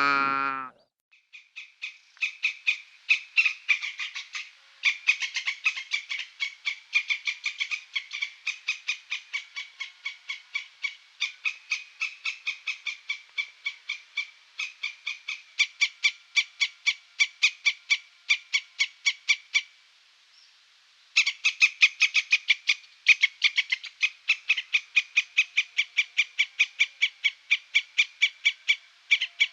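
An animal call, short and sharp, repeated rapidly about three to four times a second in a long run, with a brief pause about two-thirds of the way through.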